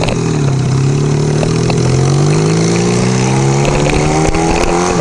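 Motorcycle engine running under way. The revs drop about half a second in, then climb steadily as the bike accelerates, with wind rushing past.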